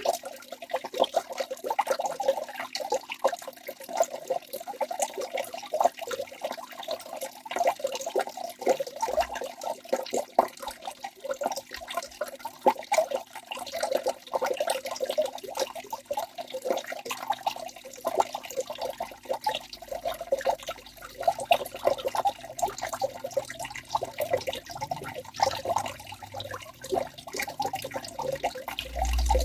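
Waterfall: water falling and splashing continuously, a dense, irregular mass of small splashes and gurgles.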